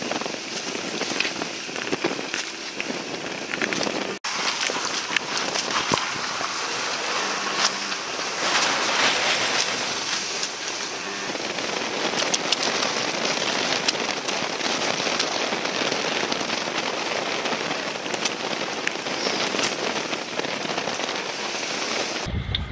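Stormy wind and water making a dense, steady hiss full of crackles, with a brief dropout about four seconds in. Just before the end it gives way to a lower rumble.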